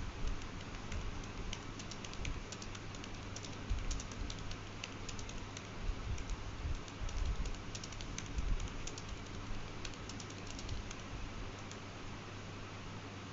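Typing on a computer keyboard: irregular clusters of quick key clicks that stop near the end, over a steady low hum.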